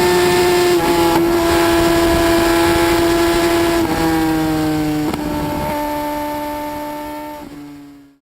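Motorcycle engine held at high revs, a steady high-pitched note that steps slightly lower twice, then fades out near the end.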